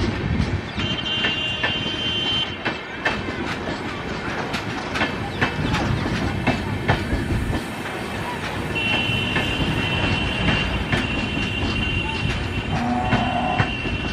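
LHB parcel vans rolling past: a steady rumble of wheels on rail, with repeated clicks as the wheels cross rail joints. A high, steady squeal comes in briefly near the start and again from about nine seconds on.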